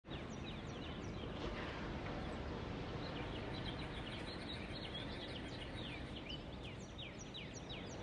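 Quiet birdsong: many quick, short falling chirps, busier toward the end, over a steady bed of background noise.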